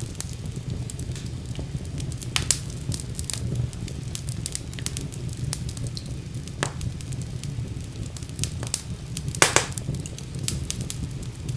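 Fire burning in a fireplace: a steady low rumble of flames with frequent crackles and sharp pops, the loudest about two and a half and nine and a half seconds in.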